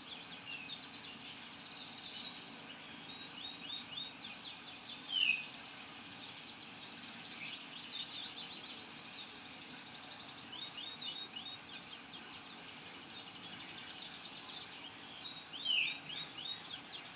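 Songbirds chirping in quick trills, with a few clearer downward-sliding whistled notes about five seconds in and again near the end, over faint steady background noise.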